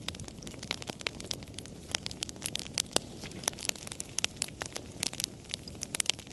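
Campfire crackling: many irregular sharp pops and snaps from burning wood over a steady low hiss of the flames.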